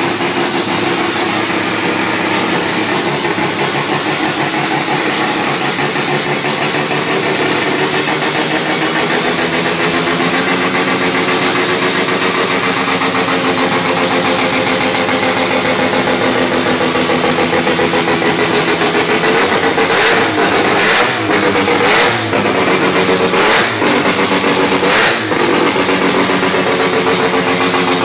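Mazda 13B semi-peripheral-port bridge-port rotary engine running on its first start, idling loudly and steadily. In the last third the throttle is blipped several times, each short rev rising and falling with a sharp crack.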